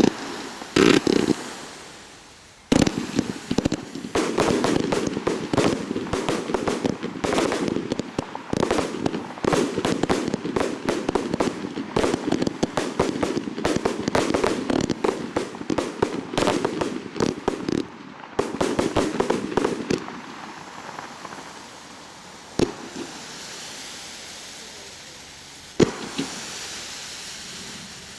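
Fireworks display: a loud bang about three seconds in, then some fifteen seconds of dense, rapid reports, tailing off into a faint hiss with two single bangs near the end.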